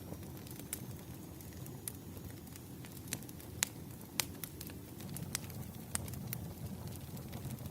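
Campfire burning: a steady low rumble of flames with scattered sharp crackles and pops, the loudest a little past halfway through.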